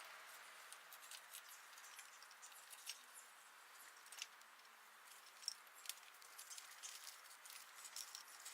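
Near silence with faint, irregular light clicks and ticks.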